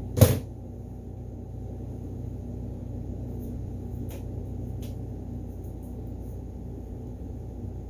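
A single sharp knock just after the start, then a steady low hum with two faint ticks about four and five seconds in.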